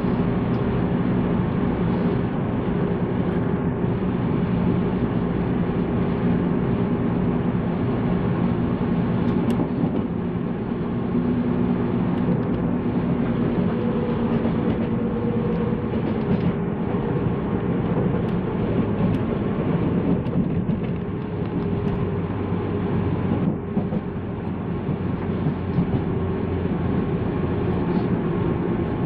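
185-series electric train running along the line, heard from inside a passenger car: steady wheel-and-rail running noise with a low hum, dipping briefly about three-quarters of the way through.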